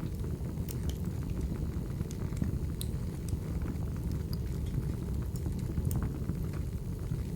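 Wood fire burning in a fireplace: a steady low rumble with scattered sharp crackles and pops of the burning logs.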